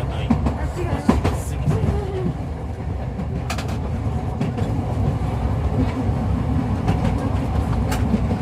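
Toden Arakawa Line streetcar running along its track: a steady low rumble of wheels and running gear, with a few sharp clicks of wheels passing over rail joints.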